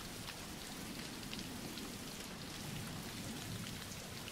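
Steady rain falling: a recorded rain background track.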